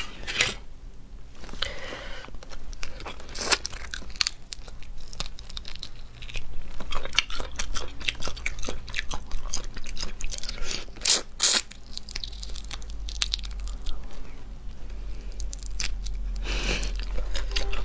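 Close-miked chewing with frequent crisp crunches and clicks: a person eating spicy crayfish tails in chili oil straight from the can.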